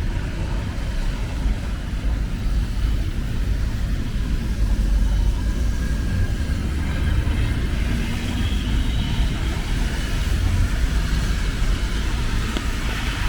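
Steady low rumble of city street traffic, with a light hiss over it.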